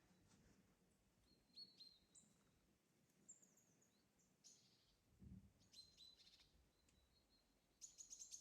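Small birds calling faintly in a quiet forest: scattered short high chirps and notes, and a quick rattling trill near the end.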